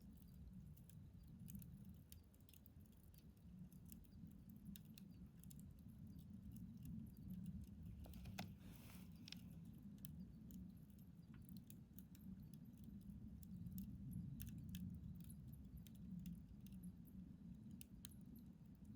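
Wood fire in a fire pit crackling faintly, with scattered sharp pops over a low steady rumble, and a brief hiss about eight seconds in.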